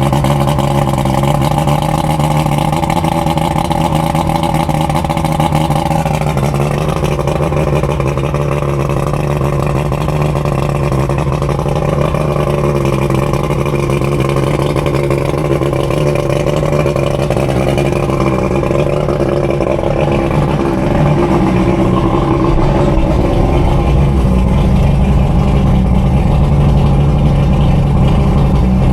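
Johnson 140 HP two-stroke outboard motor running steadily. Its note shifts about six seconds in, and it grows a little louder and deeper from about twenty seconds in.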